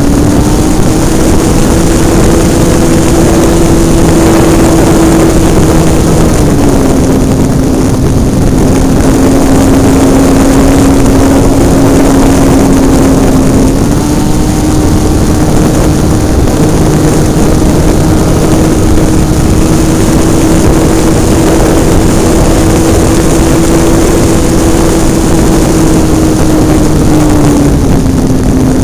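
Hobbistar 60 RC model airplane's engine running in flight, heard from a camera mounted on the plane, over a constant loud rush of noise. Its pitch steps down about six seconds in, back up around halfway, and down again near the end as the throttle is eased and opened.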